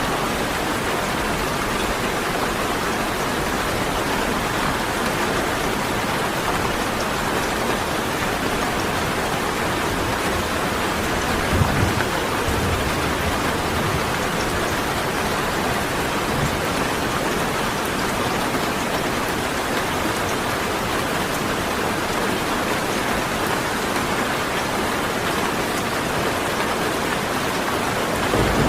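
Steady, heavy rain falling, an even hiss of drops throughout. A brief low thump breaks through about twelve seconds in and again near the end.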